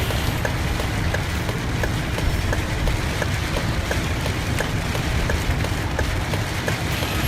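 Heavy rain falling on a moving school bus, over the low rumble of its engine and tyres. A light, even ticking repeats about twice a second throughout.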